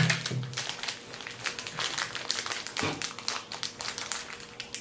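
Plastic snack-bar wrapper crinkling and rustling in the hands, a quick run of small crackles, with a brief voice sound right at the start.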